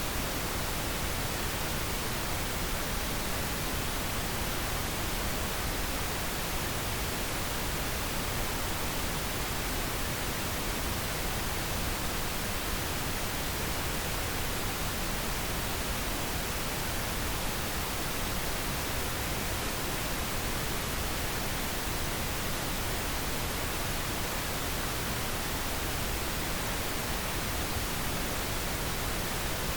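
Steady pink noise: an even, unchanging hiss spread across all pitches, generated as a sleep aid for babies.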